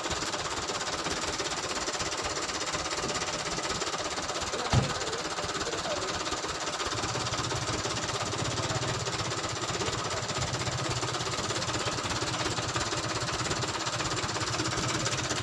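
Truck engine running with a fast steady pulsing beat. A single sharp knock comes about five seconds in, and a deeper engine note joins about seven seconds in.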